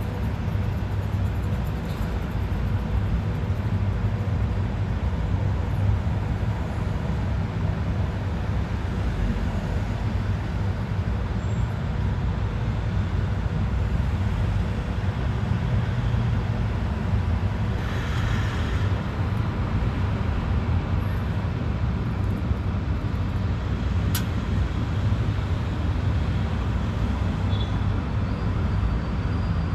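Steady low rumble of background noise, with a brief hissing swell about eighteen seconds in and a single sharp click about twenty-four seconds in.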